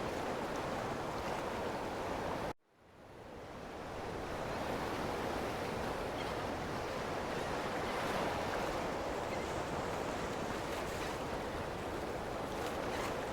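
Ocean waves washing on a shore, a steady rushing surf. About two and a half seconds in, the sound cuts out abruptly and fades back up over a second or so.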